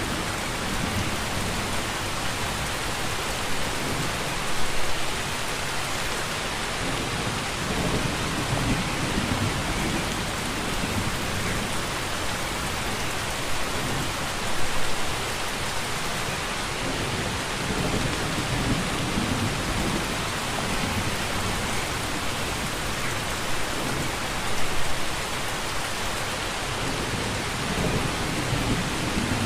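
Steady rain falling, with low rumbles of thunder swelling up about every ten seconds.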